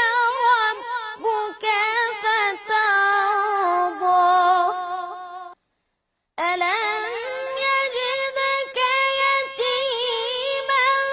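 A child's high voice reciting the Quran in melodic tajweed style, with long held notes and ornamented turns in pitch. It breaks off for nearly a second about halfway through, then comes back on a long sustained note.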